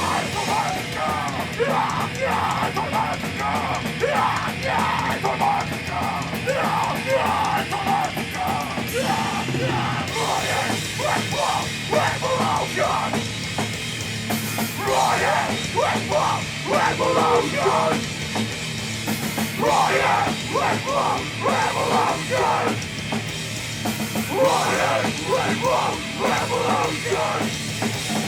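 Live punk rock band playing loud: distorted guitars and a drum kit, with shouted vocals that come in and drop out in phrases.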